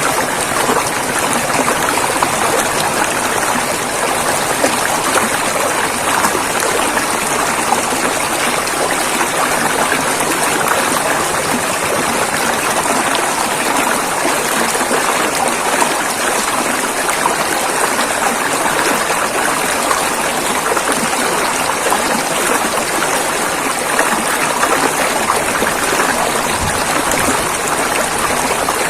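River water flowing and rushing in a steady, dense rush with no breaks.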